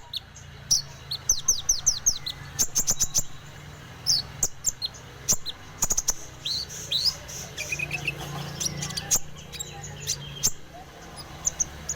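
Konin bird calling vigorously in quick runs of short, high chirps that sweep downward in pitch, with brief pauses between runs.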